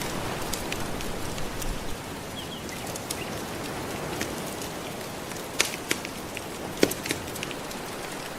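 Soft ocean waves washing steadily on the shore, mixed with a wood fire crackling. The fire's sharp pops come sparsely, with the loudest few between about five and a half and seven seconds in.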